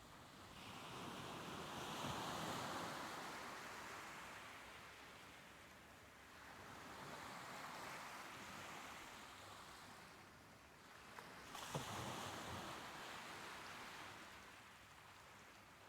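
Soft ocean waves washing in and drawing back in three swells: one builds about a second in, a gentler one comes midway, and a sharper one breaks about three-quarters through, each fading away.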